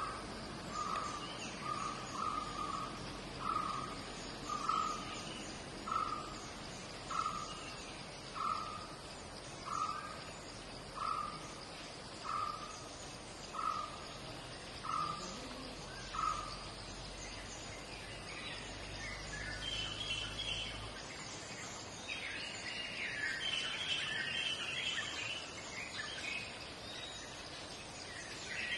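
Birds calling over steady background noise: one repeats a short single note about once every second and a bit, some thirteen times, and higher chirping and twittering follows from about 19 seconds in.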